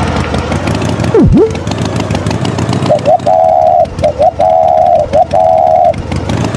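A cartoon tractor engine running steadily. About a second in, a swooping sound effect dips sharply in pitch and comes back up. In the second half come three long, even horn-like beeps.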